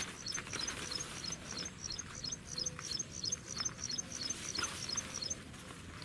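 A small bird sings a rapid, regular run of high chirps, about four a second, stopping near the end. Under it are intermittent rustling and handling noises, with a sharp knock at the very start.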